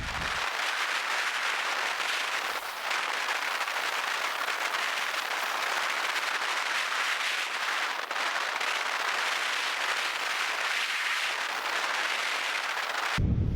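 Food sizzling in a frying pan: a steady, dense crackle and hiss that cuts in and out abruptly.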